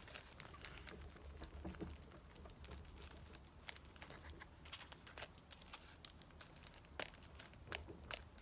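Faint paper rustling with scattered light clicks and taps as paper cut-outs are handled and pressed into a notebook, over a low steady hum.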